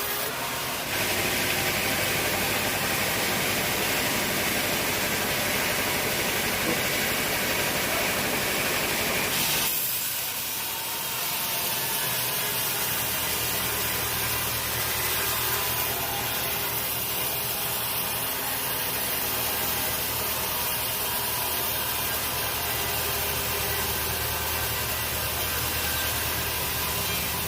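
Sawmill saw cutting through a teak log, a steady hissing cut for about nine seconds. The cut then eases off, and from about thirteen seconds the machine runs on with a steady low hum.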